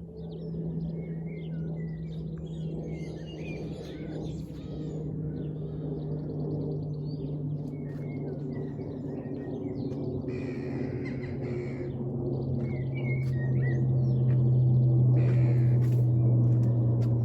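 Airbus A400M's four turboprop engines heard high overhead as a low, steady drone that slowly falls in pitch and grows louder. Small birds chirp on and off.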